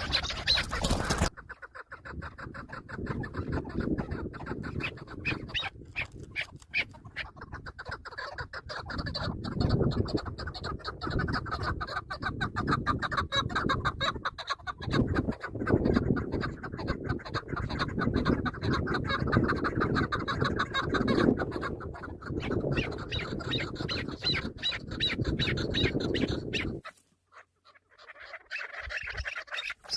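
Chukar partridge calling: a fast, steady run of short repeated notes over a low rumbling noise, stopping abruptly near the end.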